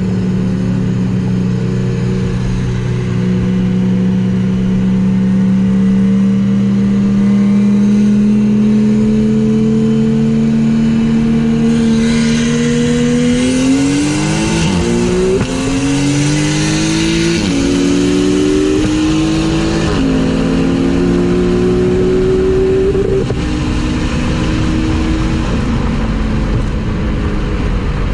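Turbocharged or supercharged car engine accelerating. A steady drone creeps slowly up in pitch, then about halfway through it climbs quickly and drops back at three gear upshifts a couple of seconds apart, settling into a steady drone near the end.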